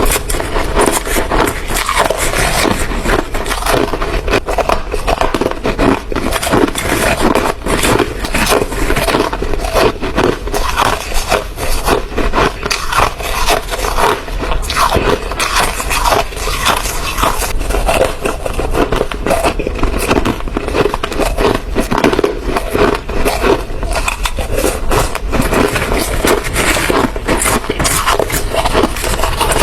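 Hard ice being bitten and chewed close to the microphone: a continuous, dense run of loud, irregular crunches and crackles.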